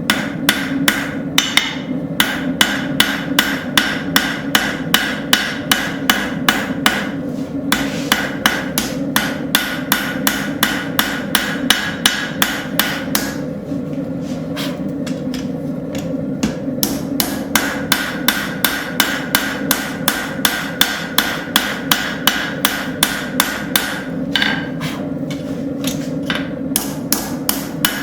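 Hand hammer striking a hot railroad spike on an anvil while it is forged into a blade, about three blows a second with a couple of short pauses, over a steady low hum.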